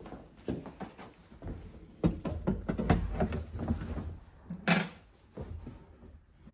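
A new tractor seat being dragged and shifted into position on a Toro Groundsmaster 328D: irregular scrapes, bumps and clunks, heaviest in the middle, with one sharp knock about three-quarters of the way through.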